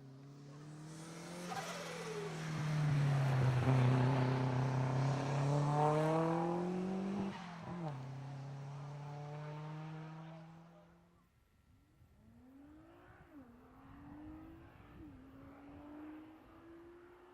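Car driven hard up a hillclimb course and passing close by. The engine note rises under full throttle, drops at an upshift about seven seconds in, then holds and fades. Fainter, it climbs again through several quick gear changes as the car goes away up the hill.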